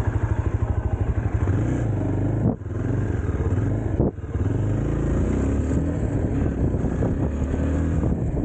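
Motorcycle engine pulsing at low revs, then pulling away and accelerating, with two brief drops in engine sound at about two and a half and four seconds in, as at gear changes.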